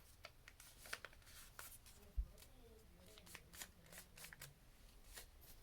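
Faint rustling and creasing of a paper sheet being folded by hand into a paper airplane wing: a scatter of short, crisp crackles, with one soft thump about two seconds in.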